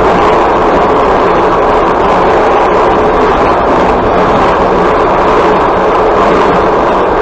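Steady loud rumble of a passenger train running at speed, wheels and carriage heard from the carriage window, with no separate clicks or knocks standing out.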